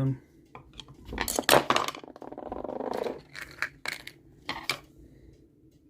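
Small metal engine gearbox parts clinking and knocking as they are handled, with a burst of knocks a little after a second in, a scraping rustle for about a second, then a few lone clicks.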